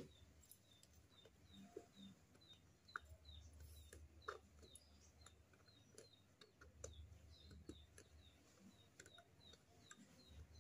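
Near silence with a small bird chirping in the background: a steady run of short, high chirps, two or three a second. A few faint clicks from the aluminium can being handled.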